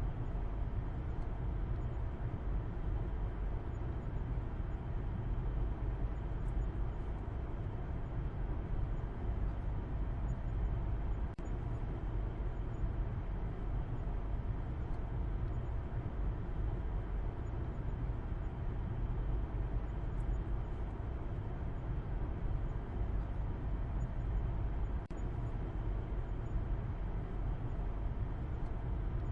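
A car driving, giving a steady deep rumble of road and engine noise, with a couple of faint knocks about eleven seconds in and near the end.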